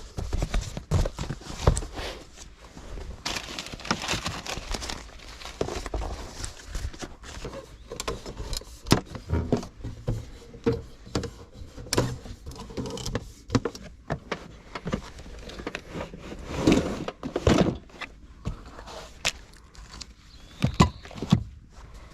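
Irregular knocks, clicks and rattles of things being handled, over a low rumble.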